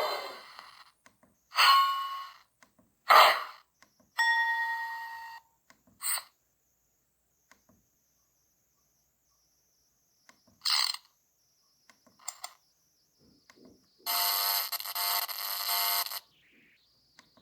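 Makeblock mBot2 robot's small built-in speaker playing its preset sound effects one after another, with silent gaps between them: short ringing dings that die away and brief blips, then a steady buzzing tone for about two seconds near the end.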